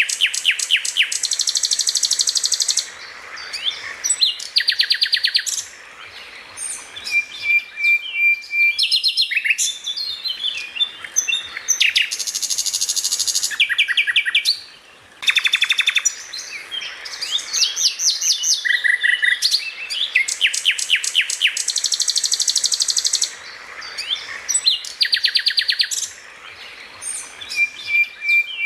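Songbird singing: fast trills of rapidly repeated high notes lasting a second or two, alternating with short whistles and scattered chirps, over and over.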